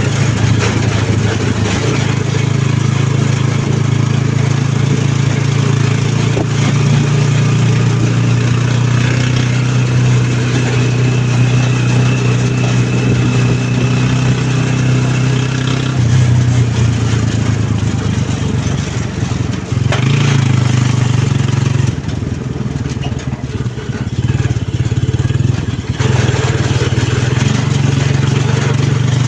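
An engine running steadily with a low, even drone, easing off for a few seconds about three-quarters of the way through.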